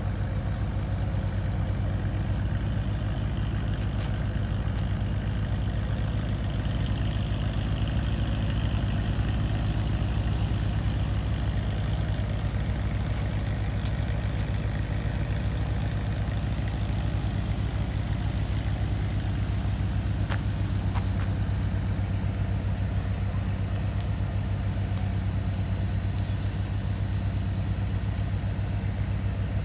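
BMW E92 M3's V8 engine idling steadily through its quad exhausts, not revved.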